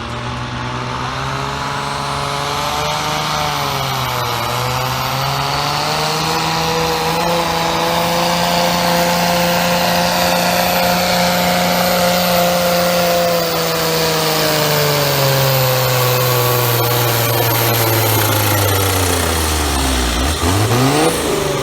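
Competition pulling tractor's engine at full throttle during a pull, loud and sustained, with a thin high whine above it. The engine note sags about four seconds in, climbs back and holds, then drops away near the end as the throttle is closed, with one short rev right at the end.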